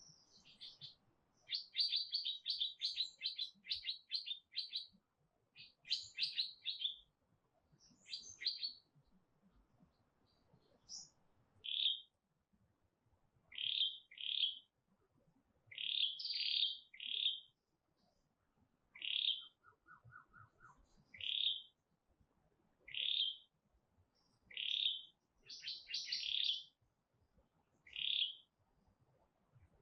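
A songbird singing: a rapid run of chirps in the first few seconds, then short phrases repeated about every one and a half to two seconds.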